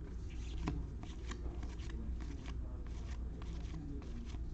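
Baseball trading cards being flipped through by hand: a quick, uneven run of short card-on-card swishes and snaps, with one sharper click under a second in. A steady low hum runs underneath.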